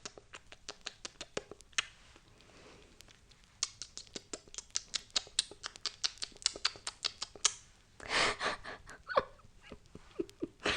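Close-miked kisses, one lip smack after another at a few a second, in two runs, with a short breathy burst about eight seconds in.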